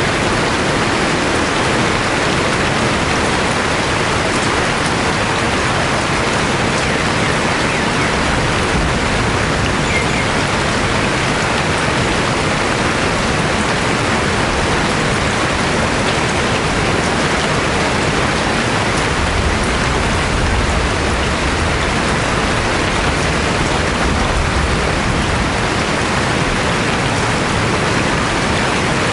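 Steady heavy rain falling, an even wash of noise. A low rumble swells in the second half.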